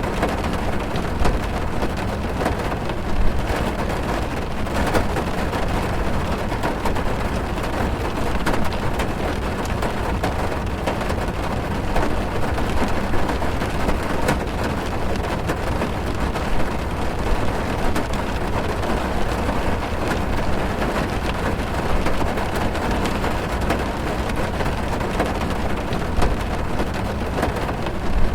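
Heavy rain drumming on a car's roof and windows, heard from inside the car: a steady dense patter with scattered sharper drop hits.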